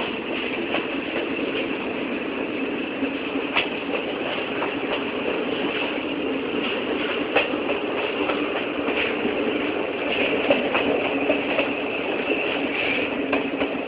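Train running on its rails: a steady rumble with scattered sharp clanks and rattles at irregular moments.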